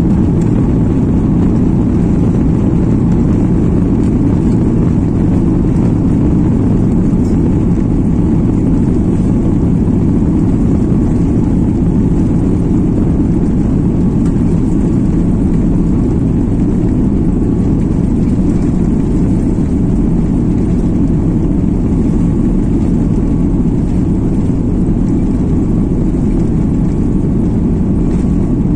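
Steady jet airliner cabin noise: a loud, even rumble of the engines and rushing air, with a faint steady hum above it.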